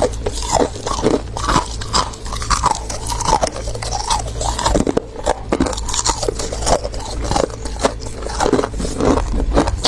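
A person biting and chewing freezer frost close to the microphone: a dense, irregular icy crunching and crackling, with a steady low hum underneath.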